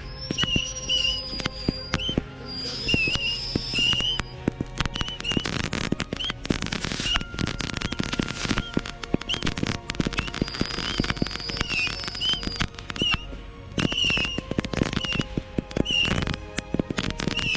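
Fireworks going off: dense crackling with many sharp bangs, and short high chirps repeating over them.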